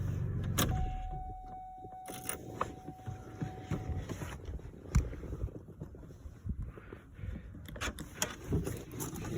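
2002 Chevrolet Impala's 3.8-litre V6 idling, then switched off about half a second in. A single steady electronic tone follows for about three seconds, then scattered light clicks and knocks.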